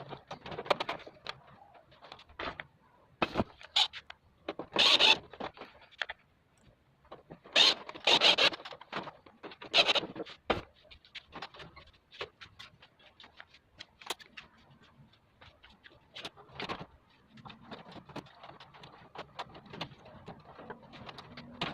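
Irregular scraping, clicking and knocking of split air conditioner indoor-unit parts being handled and fitted together, with a few louder scrapes about a third to halfway in.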